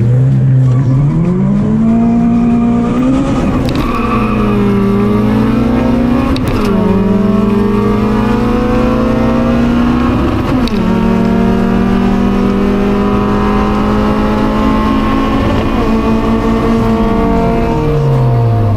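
A Honda four-cylinder engine at full throttle from a standing start, heard from inside the car: the revs climb, drop sharply at three gear changes about three and a half, six and a half and ten and a half seconds in, and fall away near the end as the throttle is lifted.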